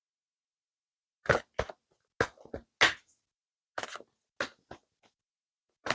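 About eight short, sharp taps and clicks at irregular intervals, with dead silence between them.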